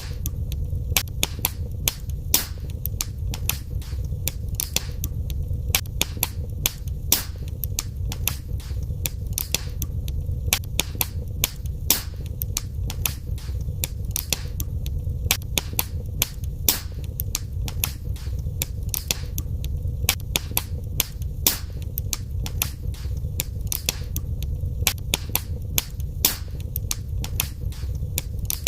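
Wood fire burning in a fireplace: a steady low rumble of the flames with frequent sharp crackles and pops, several a second at irregular intervals.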